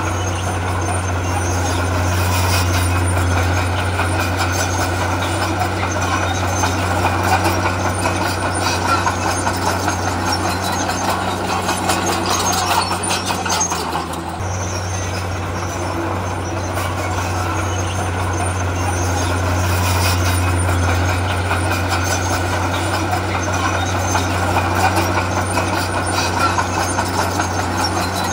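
Heavy diesel earthmoving machinery running steadily under load, with scattered clatter. The engine dips briefly about halfway through, then picks back up.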